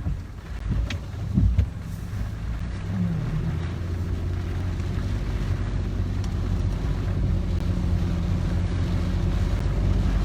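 Car engine and road noise heard from inside the cabin: a steady low drone that grows slowly louder from about three seconds in, after a few short knocks in the first two seconds.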